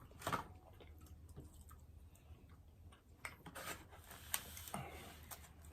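Chewing and mouth sounds of someone eating, with scattered soft clicks and smacks and a busier stretch a little past halfway.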